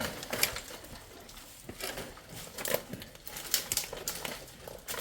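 Irregular rustling and crackling with sharp clicks and knocks, about eight of them at uneven spacing, the loudest a little past the half-way point.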